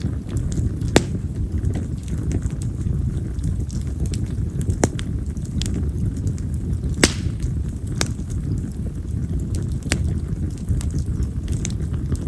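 Split wild cherry (yamazakura) firewood burning in an open fire: a steady low rumble of flames with scattered crackles and sharp pops, the loudest about a second in, near five seconds and about seven seconds in.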